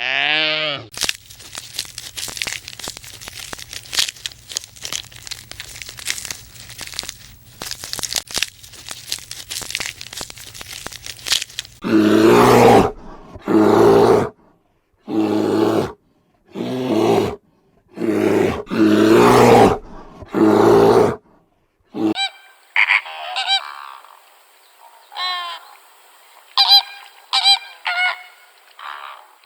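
A series of animal calls. First comes about ten seconds of crackling noise over a low hum. Then, from about twelve seconds in, a run of loud, harsh calls about a second apart, followed by shorter, higher calls.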